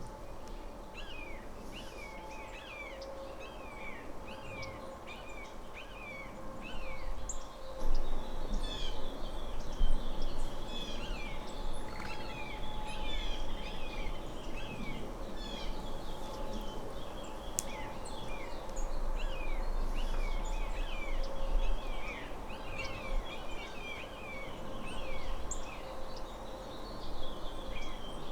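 A flock of small birds chirping and calling in quick, overlapping notes throughout, over a steady low hum.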